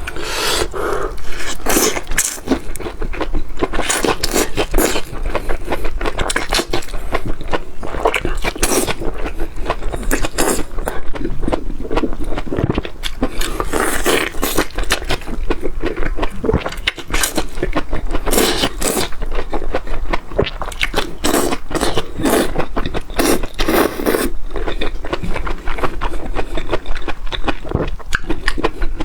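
Close-miked eating of braised chicken heads: steady wet chewing with many sharp crunches and cracks as bone and cartilage are bitten through.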